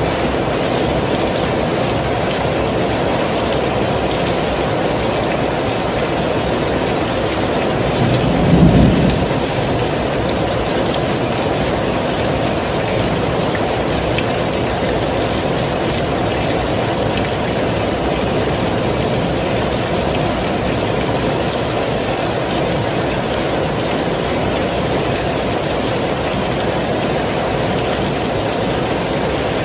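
Heavy rain falling in a steady, dense downpour. About eight seconds in, a brief low rumble swells and fades within a second or two.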